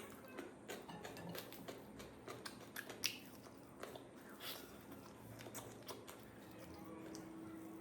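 Close-up eating sounds: a person chewing and eating rice and curry, with irregular wet smacks and clicks, the sharpest about three seconds in.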